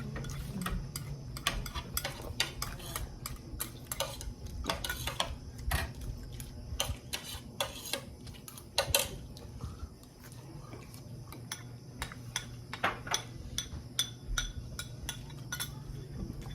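Cutlery clinking and scraping against plates during a meal, in many irregular sharp clinks, over a low steady hum.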